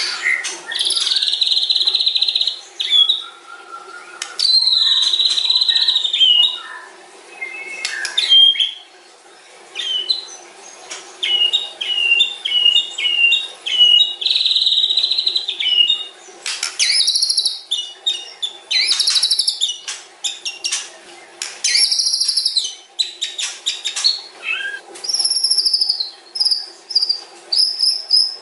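White-rumped shama (murai batu) singing a long, varied song: held whistled notes, runs of short repeated notes and bursts of rapid sharp chattering, one phrase after another.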